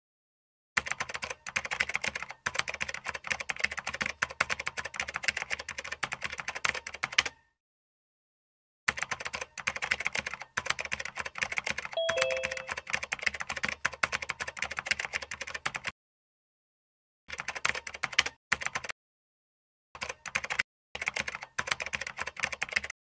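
Rapid typing on a computer keyboard, in several bursts broken by dead silence. About twelve seconds in, a short two-note falling chime sounds over the typing.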